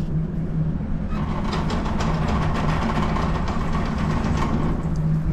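Steady low mechanical hum with light clicks and rattles of a 12-gauge shotgun being handled as a slug is loaded.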